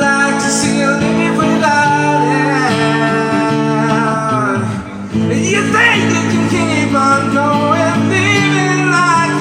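A voice singing over a strummed acoustic guitar, with a brief break in the singing about halfway through.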